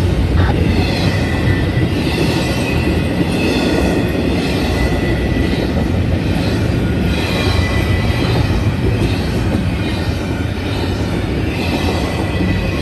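A long freight train rolling past, its wheels rumbling steadily on the rails, with high-pitched wheel squeal rising and fading at intervals.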